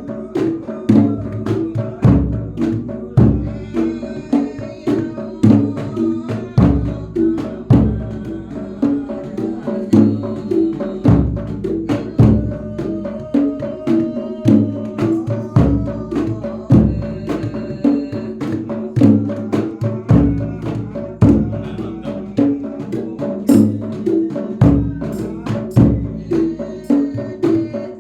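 Jedor bass drum beaten in a Javanese percussion ensemble, with a deep boom about once a second over a fast, steady pattern of other drums and pitched percussion.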